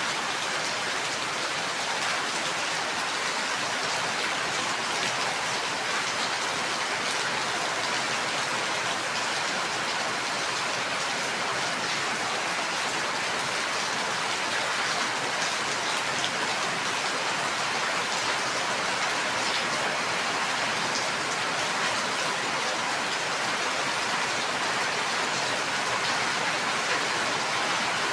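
Steady heavy rain, an even hiss of falling rain with scattered drops striking a surface.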